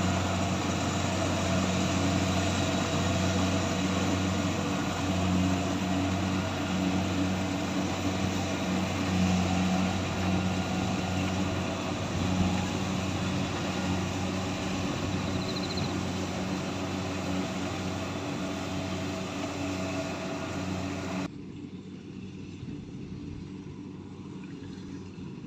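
Kubota combine harvester running steadily, its diesel engine and machinery giving a continuous drone. About 21 seconds in, the sound abruptly turns quieter and muffled, losing its higher part.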